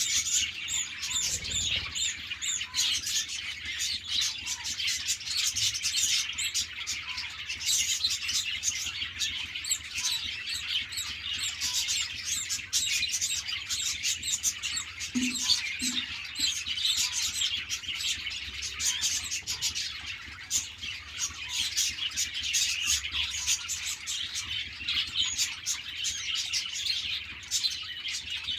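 A flock of budgerigars chirping and chattering together: a dense, continuous stream of short, high twitters.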